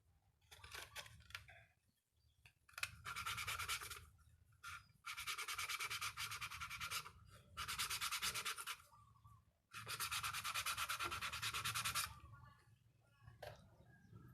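Four bursts of rapid, even abrasive rubbing, each lasting one to two seconds with short pauses between, like sanding or filing a small plastic part.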